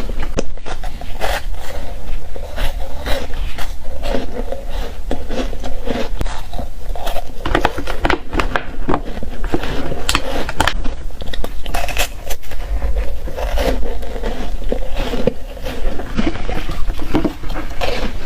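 Close-up crunching of shaved foam ice and crushed ice being bitten and chewed in the mouth: a dense, unbroken run of sharp crunches and crackles.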